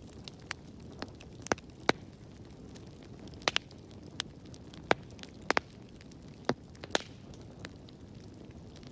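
Wood fire burning in a fireplace: a low steady noise of burning, with irregular sharp crackles and pops. The loudest pops come near two, five and seven seconds in.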